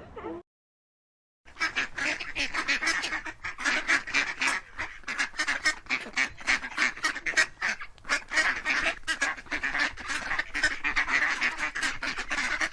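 A flock of waterfowl calling over one another in a rapid, continuous chatter of quacks and honks, starting after a second and a half of silence.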